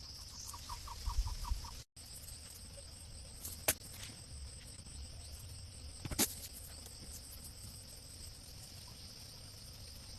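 Steady high-pitched insect chirring outdoors, broken by two sharp knocks a few seconds apart. In the first two seconds there is a quick run of about ten short pitched notes.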